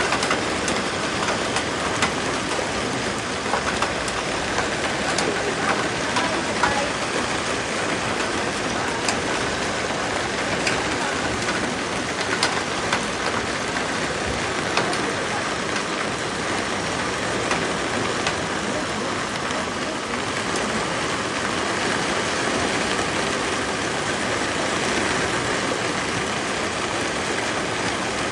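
Steady rain falling, with many separate drops ticking sharply on a surface.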